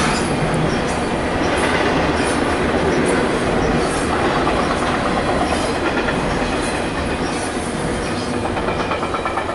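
Double-stack container cars of a Norfolk Southern intermodal freight train rolling across a railway bridge: a steady rumble with the clatter of wheels over the rails and scattered clicks.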